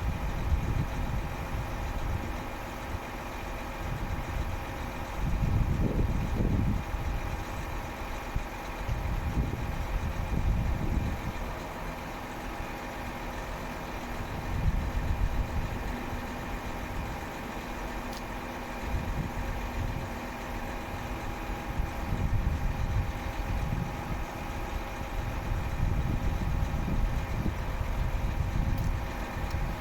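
Diesel engine of a Renault C 430 truck idling steadily, with irregular low rumbling swells every few seconds.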